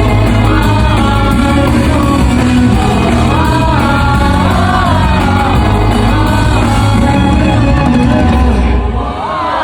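Loud live pop music with singing over heavy bass and drums. About nine seconds in, the bass and drums drop out and mainly the voices carry on.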